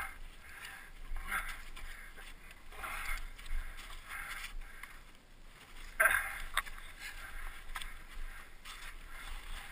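Straining breaths and grunts from people pushing a dead dirt bike uphill, with boots scuffing and slipping on snow. The engine is off. The loudest effort comes about six seconds in.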